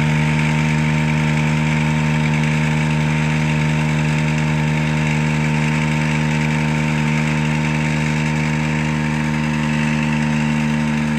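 Forestry bucket truck's engine running at a steady, unchanging speed, an even hum throughout.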